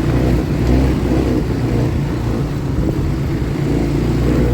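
ATV engine running steadily at low revs while the quad is ridden along.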